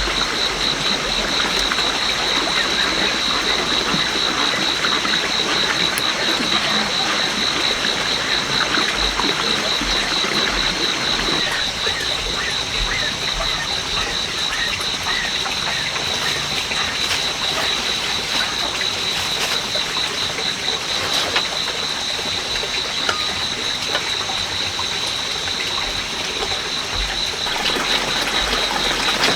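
Water splashing and trickling, with a steady, rapidly pulsing high-pitched trill running throughout.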